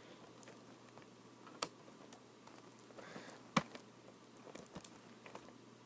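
Faint scattered clicks and taps of scissors and plastic packaging being handled, with two sharper clicks about one and a half and three and a half seconds in.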